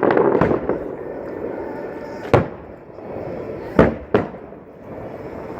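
Fireworks show: a loud aerial shell burst with crackling right at the start, then three single sharp bangs, about two and a half, four and four and a quarter seconds in.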